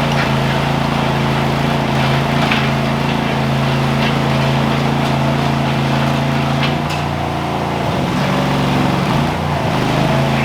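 Trencher engine running steadily under load while cutting a 4-inch trench. About seven seconds in its note sags and wavers for a couple of seconds, then picks back up, with scattered clicks from the digging.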